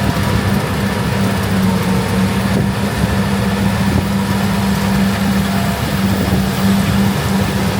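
Heavy diesel engine of harvest machinery running steadily, a constant hum over a dense mechanical rumble.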